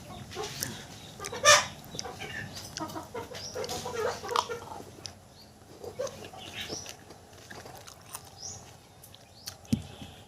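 Chickens clucking in short, irregular calls, the loudest about a second and a half in, with scattered sharp clicks and a low thump near the end.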